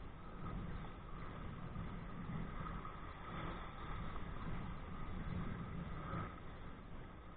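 Wind buffeting a body-worn camera's microphone on a kite kayak, with rushing water: a steady, gusting rumble and hiss.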